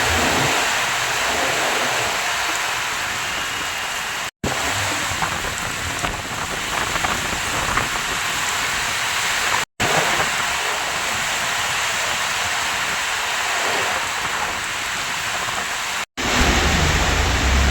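Heavy rain pouring down, a steady loud hiss. It cuts out briefly three times where separate shots are joined, and a low rumble comes in near the end.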